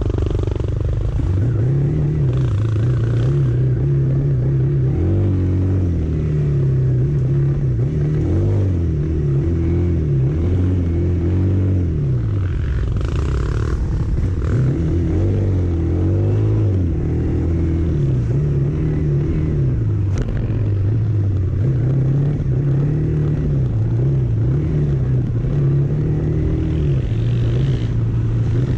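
Motor vehicle engine running while driving along, its low drone rising and falling in pitch as the speed changes, over steady road noise.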